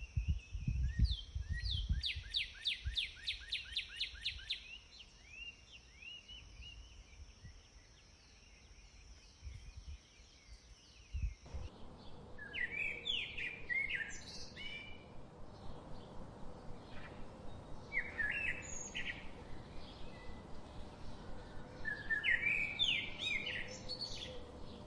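Birds chirping and singing, with a fast repeated trill in the first few seconds over a steady high whine and a few low thumps. About halfway through, the background changes abruptly to a fuller hiss, with short phrases of chirps returning every few seconds.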